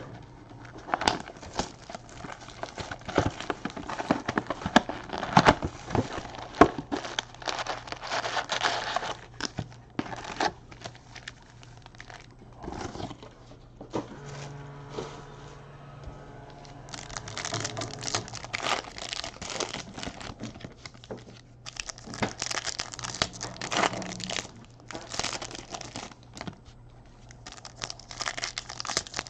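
Trading-card pack wrappers crinkling and tearing as packs are ripped open, with a dense run of sharp crackles and clicks from handling the packs and cards. It eases off for a few seconds about halfway through, then picks up again.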